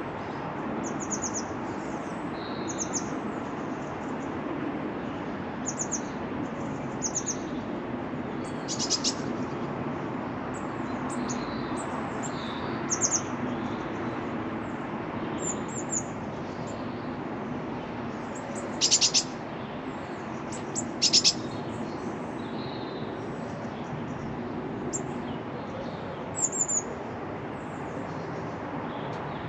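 Small garden birds calling in short high chirps and quick trills, scattered throughout, with two louder trills past the halfway point, over a steady low background rumble.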